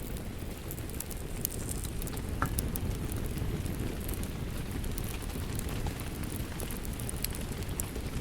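Steady rain with a low rumble, mixed with a wood fire crackling in scattered sharp pops.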